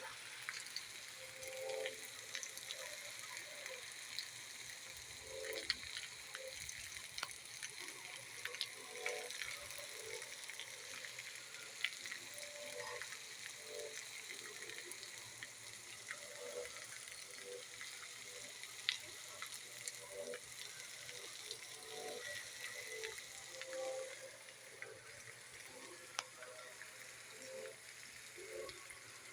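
Rain falling, a steady hiss with frequent sharp ticks of drops striking nearby surfaces.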